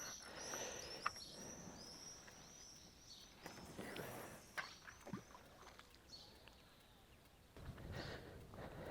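A small bird singing a run of short, repeated high chirps over faint quiet riverside ambience, fading out after about four seconds, with a few faint scattered clicks.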